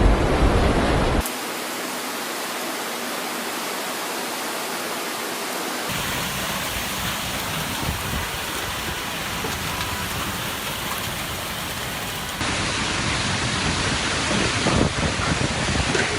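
Steady hiss of heavy storm rain, in several clips cut together. In the last few seconds it is louder, with gusty wind buffeting the microphone.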